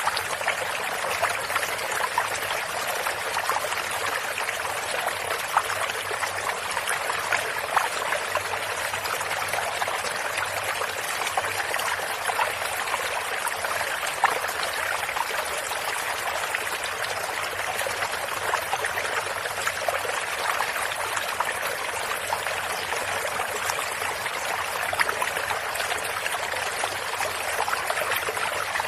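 A small stream of running water, burbling and trickling steadily, with small splashes throughout.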